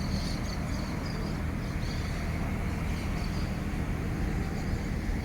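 A motor running steadily with a low hum, and faint high chirps over it in the first few seconds.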